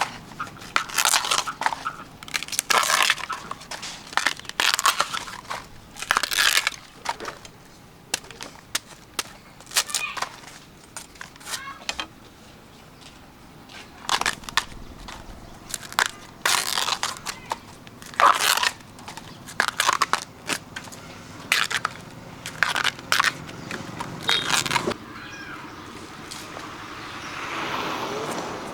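Tough outer sheaths being torn off fresh bamboo shoots by hand: a string of short, crisp ripping and crackling tears at an irregular pace, with a quieter stretch in the middle.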